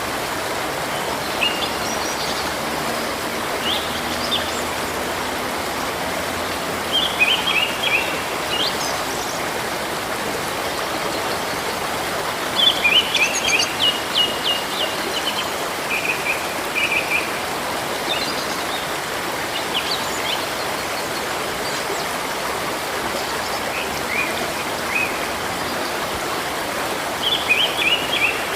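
Running river water with a steady rushing sound, over which small birds call in short groups of quick, high chirps every few seconds, the busiest stretch about twelve to fourteen seconds in.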